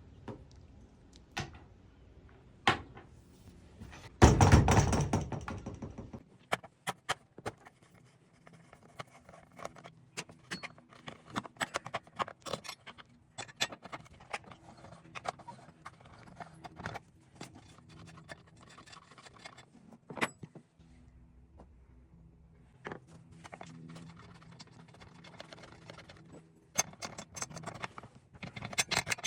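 Handling clicks, knocks and rattles of tools and plastic parts as a Stihl FS 94 R string trimmer is taken apart for a spark plug, air filter and fuel filter change. About four seconds in there is a louder rushing noise lasting about two seconds.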